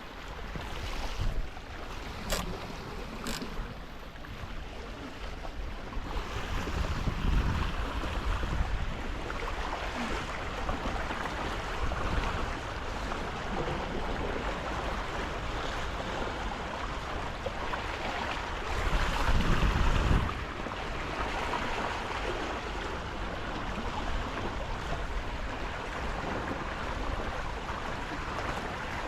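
Water rushing along the hulls of a Tornado sailing catamaran under way, with wind buffeting the microphone, twice in stronger gusts. A few sharp ticks in the first seconds.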